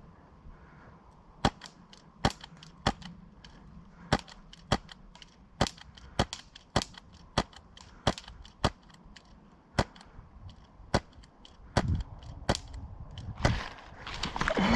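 Airsoft guns firing single shots: a run of sharp pops, one every half second to a second, starting about a second and a half in. Near the end a louder rustling noise comes in.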